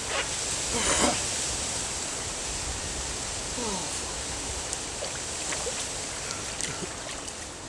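Pond water sloshing and splashing around a person moving about in it, heard as a steady rush of water noise broken by a few small splashes.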